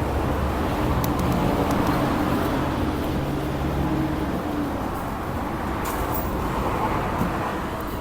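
A steady low motor hum that cuts off abruptly a little past halfway, over a constant background of traffic-like noise, with a few faint clicks.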